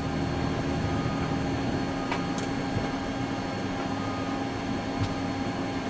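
Steady machinery hum with a constant drone and whine on the flight deck of an airliner under tow, from its running systems' fans and air, with a few faint clicks.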